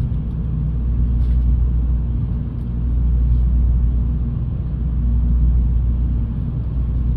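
Steady low rumble of a Shinkansen train heard from inside a passenger car as it rolls slowly along a station platform on arrival.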